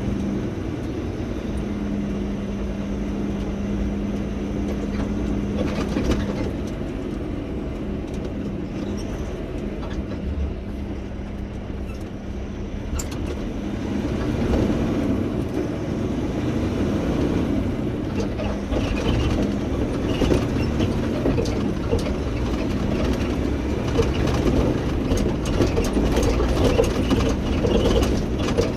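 Heavy truck running: a steady low rumble with road noise that grows louder about halfway through.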